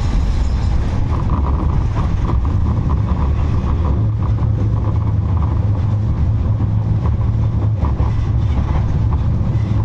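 A 71-628-02 tram running along the rails, heard from on board: a steady low rumble with a mid-pitched hum from about a second in.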